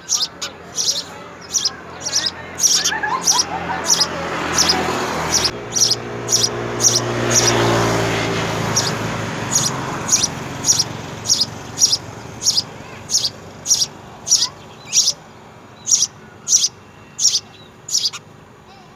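A small bird chirping over and over in a regular, sharp, high-pitched series, about one and a half chirps a second. A low hum swells and fades in the middle.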